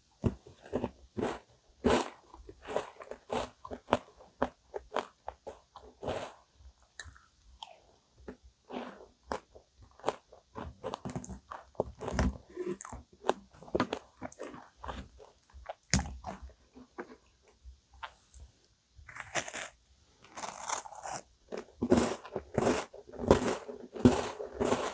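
Close-miked eating: chewing and crunching of chocolate-coated vanilla ice cream cake and chocolate digestive biscuits, in many short, irregular mouth clicks and crunches, growing denser over the last several seconds.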